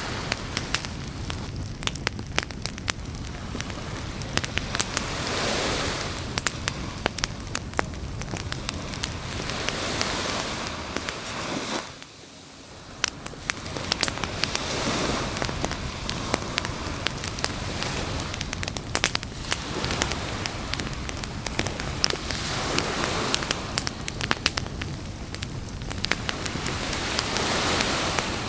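Campfire crackling and popping with sharp snaps, over surf washing in and out in swells every four or five seconds. The sound drops away abruptly for about a second around twelve seconds in, then builds back.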